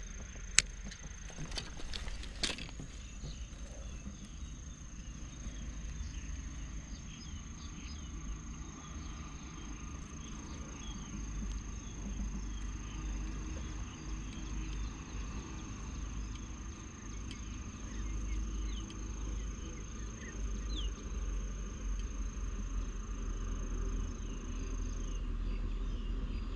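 Outdoor ambience: low wind rumble on the microphone with a thin, steady high-pitched whine that stops near the end, and two sharp clicks in the first few seconds.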